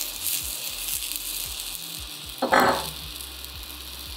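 Potato-stuffed capsicum sizzling with a steady high hiss as its filled side sears on a hot, lightly oiled cast iron pan. A short louder noise comes about two and a half seconds in.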